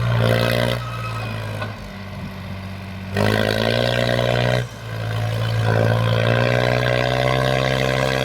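New Holland tractor's diesel engine working hard as it pulls a loaded sugar cane trolley. It surges in revs at the start and again about three seconds in, drops for a moment, then holds a steady, loud pull.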